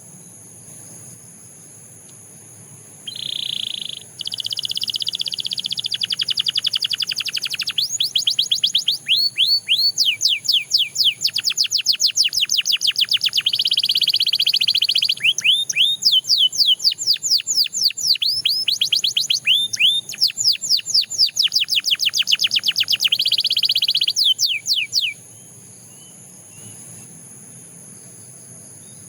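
Canary singing one long song bout: fast trills and rolling runs of quick down-slurred notes, starting about three seconds in and breaking off a few seconds before the end.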